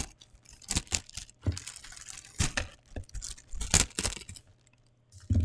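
Packaging being handled and torn open by hand: a run of short sharp crinkling and tearing noises in small bursts, dying away near the end.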